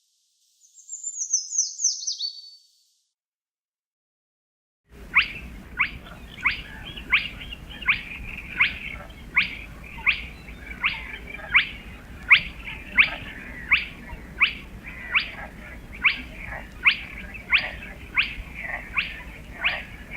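Eurasian treecreeper song: a short, high trill falling in pitch, about a second in. After a pause, a bird repeats a falling call about one and a half times a second over a background hiss, until it cuts off near the end.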